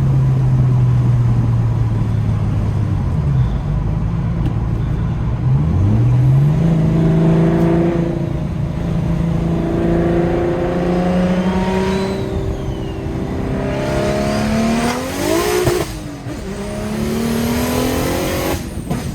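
Single-turbo BMW N54 inline-six accelerating hard, its revs climbing in several rising sweeps with short drops between as it shifts up through the gears.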